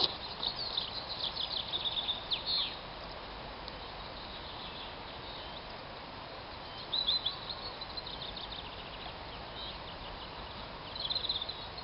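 Songbirds singing in short, quick chirping phrases, in several bursts, over a steady background hiss of open-air noise.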